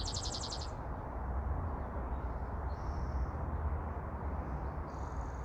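Outdoor ambience of birds calling over a steady low rumble: a quick high trill at the start, then short high chirps about three seconds in and near the end.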